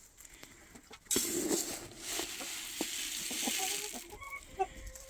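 Chickens clucking softly in short low calls. From about a second in, a loud rustling hiss runs for roughly three seconds.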